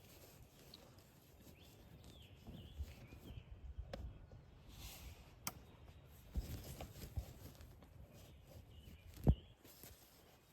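Scattered soft thumps and rustles with a few faint bird chirps, and one sharp knock about nine seconds in.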